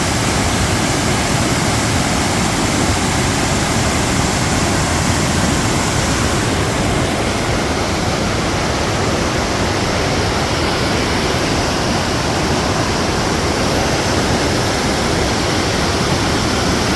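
Kakabeka Falls: a large waterfall's water plunging and churning, a loud, steady, unbroken rush.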